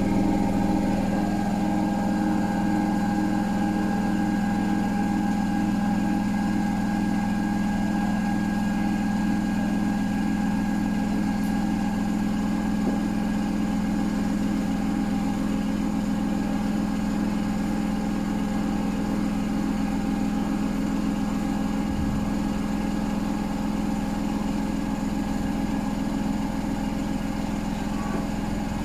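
Hotpoint WMFUG942 washing machine running with a box of dog food in the drum: a steady motor hum and whine at constant speed, with a single low knock about 22 seconds in.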